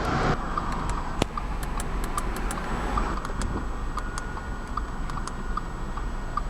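A car's steady low rumble with a light, regular ticking about two to three times a second.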